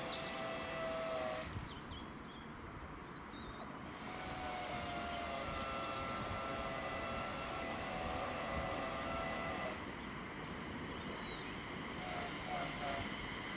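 Train running on the line: a steady rumble with high, steady whining tones that come and go, sounding for the first second and a half and again from about four to ten seconds in.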